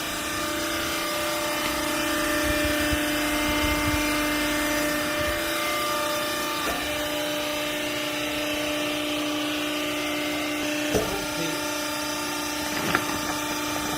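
Hydraulic clothing baler's power unit running steadily with a constant hum, with two sharp knocks near the end.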